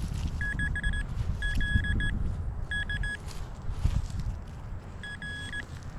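Metal detector giving short, rapid high-pitched beeps in five clusters about a second apart, signalling a shallow metal target, a bottle cap. A steady low rumble runs under the beeps.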